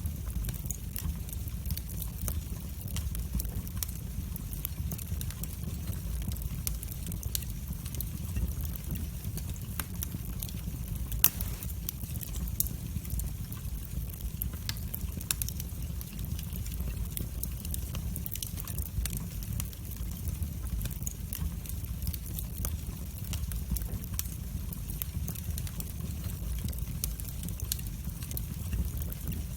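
Wood fire burning in a fireplace: a steady low rumble of the flames with continual small crackles and pops, and one sharper pop about eleven seconds in.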